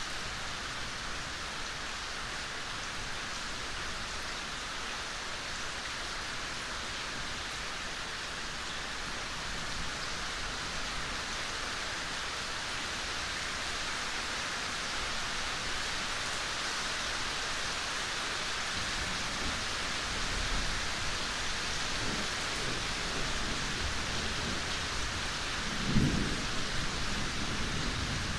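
Steady rain falling, an even hiss of many drops. In the last third a low rumble builds beneath it, and a sharp low thud stands out a couple of seconds before the end.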